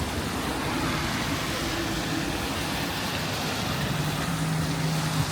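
Steady outdoor street noise with road traffic going by, and a low steady hum joining about four seconds in.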